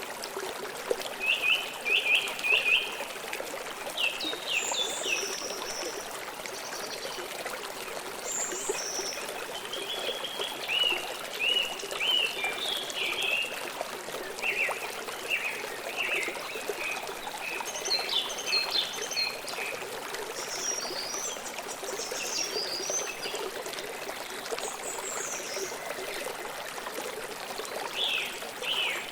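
Forest river flowing steadily, a constant rushing wash of water, with several birds chirping and trilling over it at intervals.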